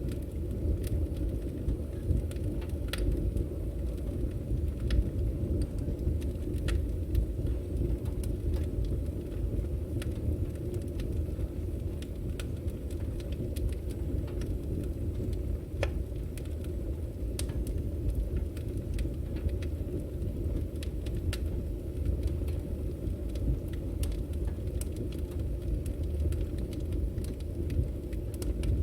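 Firewood burning: a steady low rush of the flames, dotted with sharp crackles and pops from the logs every second or so.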